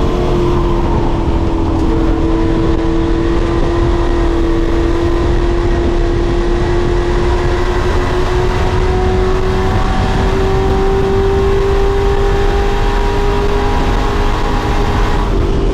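Pro Truck race engine running hard at sustained high revs, its pitch steady and then slowly climbing.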